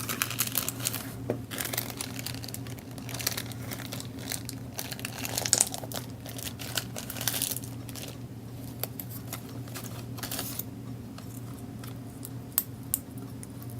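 Cellophane and paper crinkling and rustling as they are handled, with many small irregular clicks and taps, busier in the first half. A steady low hum sits underneath.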